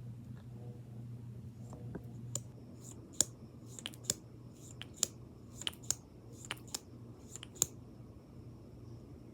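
A run of about a dozen sharp, irregular tapping clicks on makeup items, roughly two a second, starting about two seconds in and stopping near the end, over a steady low hum.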